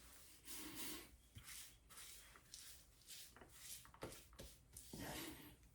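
Near silence, broken by a few faint, short rustles of hands handling something.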